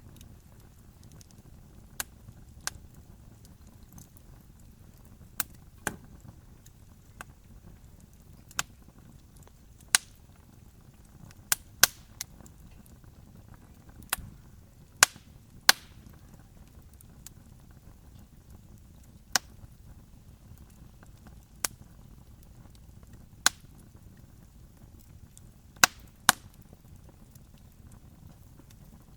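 Campfire crackling: sharp pops of burning wood at irregular intervals, some close together in pairs, over a steady low rumble.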